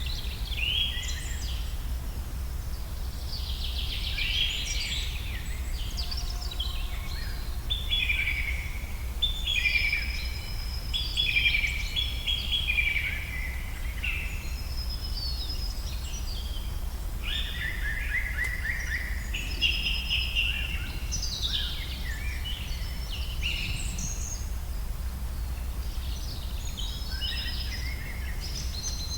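Several birds singing and calling in a forest, with overlapping chirps and warbled phrases one after another. Under them is a steady low rumble.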